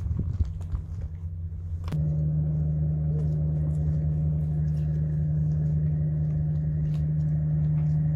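Steady low engine hum with a sharp click about two seconds in, after which the hum is louder and steadier.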